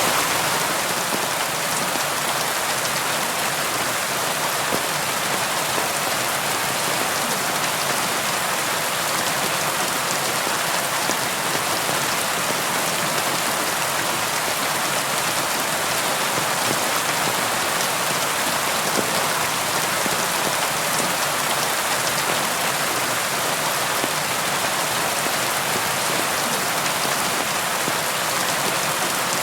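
Steady rain falling, a dense even patter of many small drops with no thunder.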